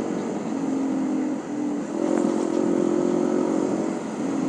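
Honda CB150R's single-cylinder engine running while the motorcycle is ridden, with a steady note that dips and shifts pitch briefly about a second and a half in.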